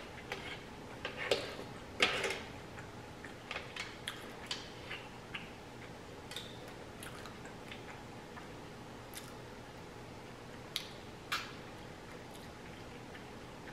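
Close-miked chewing and mouth sounds of someone eating: scattered soft clicks and smacks, busier in the first few seconds and sparser later.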